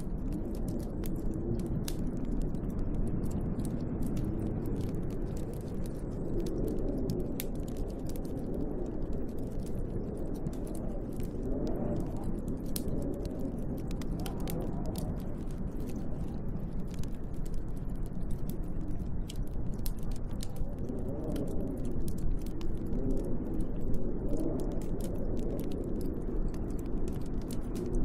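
Wood fire crackling in a fireplace, with frequent sharp pops and snaps, over a low, gusting storm wind that swells and fades every few seconds.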